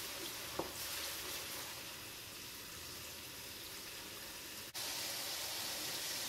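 Crushed onion, ginger and garlic sizzling steadily in hot oil in a frying pan, with one light knock about half a second in. The sizzle cuts out for an instant about two-thirds through and comes back a little louder.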